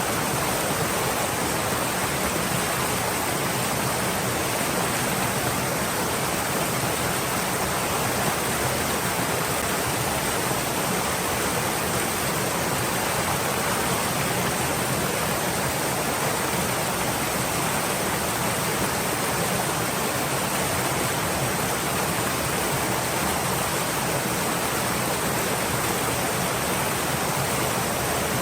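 Stream water flowing, a steady, unbroken rushing noise with no changes or separate events.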